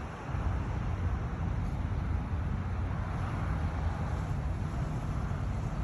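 A vehicle engine running steadily: a constant low rumble with an even hiss above it.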